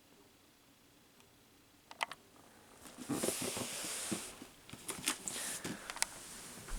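A cardboard box wrapped in a plastic bag being handled and turned over: a couple of clicks about two seconds in, a second of plastic rustling, then scattered knocks and taps.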